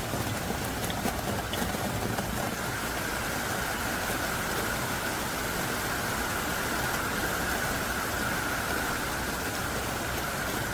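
Heavy rain pouring down steadily, a dense even hiss with faint scattered drop ticks.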